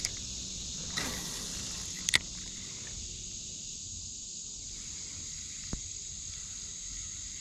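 Steady high-pitched drone of summer insects, with a few light clicks about a second in, a quick double click around two seconds, and one more near six seconds.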